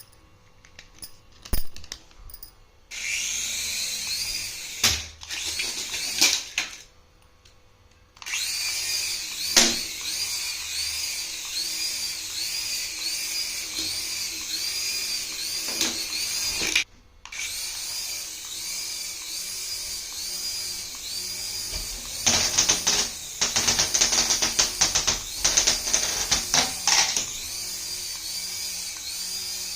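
Battery-powered toy running: a small electric motor whines under an electronic sound effect, a high tone that swoops up and down about once a second. Rapid clattering comes in for a few seconds near the end.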